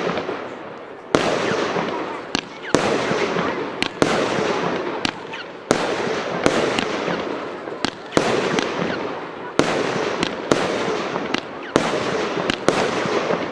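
Consumer fireworks battery (a 37-shot cake) firing shot after shot: a sharp bang about every second, sometimes two close together, each followed by a fading hiss.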